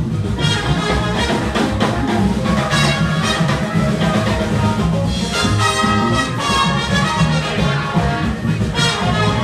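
Live New Orleans band playing loud, steady music with horns.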